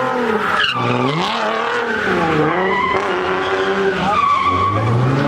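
A car engine revving up and down over and over while its tyres squeal and skid, as in a burnout or donuts.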